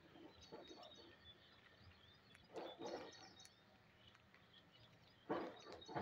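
Faint short bird chirps, with two brief rustling bursts about two and a half seconds and five seconds in.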